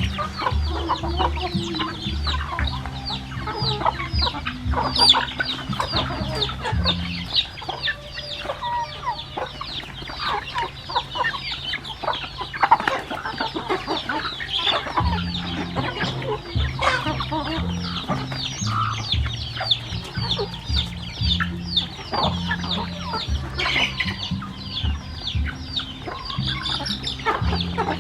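A flock of chickens clucking and calling, with a dense, unbroken stream of short high calls that fall in pitch.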